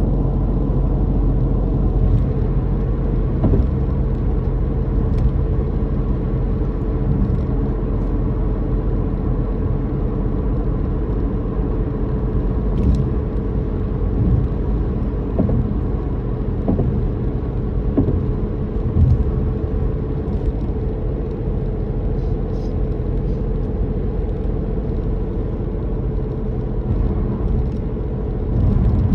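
Car being driven at a steady pace: the engine drones and the tyres give a constant road rumble, with a few faint bumps and knocks now and then.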